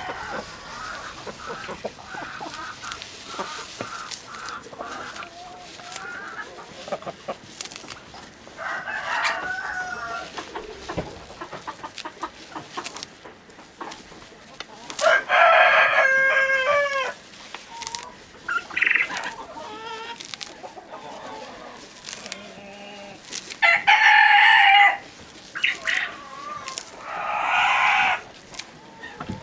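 Chickens clucking, a quick run of short clucks at first, then several loud, drawn-out calls from the flock around the middle and near the end.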